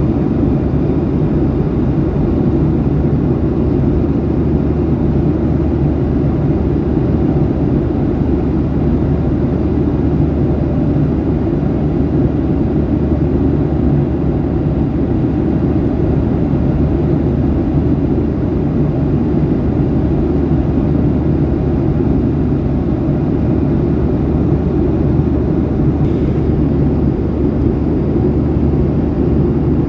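Steady jet airliner cabin noise: engine and airflow rumble heard from inside the passenger cabin, even and unchanging throughout.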